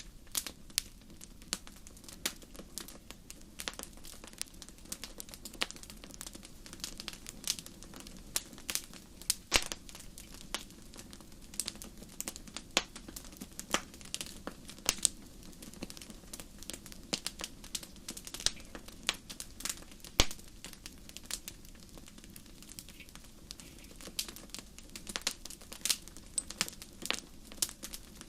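Wood fire crackling in a fireplace: irregular sharp pops and snaps, some louder than others, over a low steady rumble of the burning fire.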